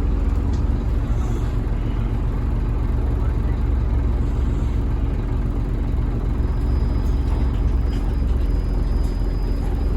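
Inside a 2008 Scania N230UB OmniCity single-deck bus, its five-cylinder diesel engine and drivetrain run with a steady low rumble.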